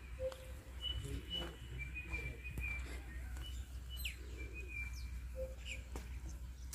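Small birds calling: short, high whistled notes repeating, a few quick falling chirps and two brief lower hoots, over a steady low rumble.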